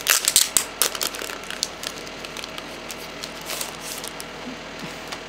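Postcards and their packaging being handled: a quick run of sharp crackling clicks in the first second, then a few scattered lighter clicks.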